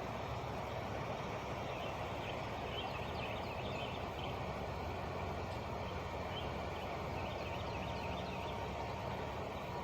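Truck engine idling with a steady low hum, while birds chirp over it in short scattered calls.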